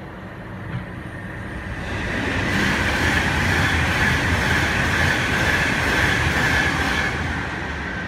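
Virgin Trains class 390 Pendolino electric train passing through the station at speed without stopping: a rising rush of wheels on rail and air, loudest for several seconds in the middle with a high steady hiss, then dying away near the end.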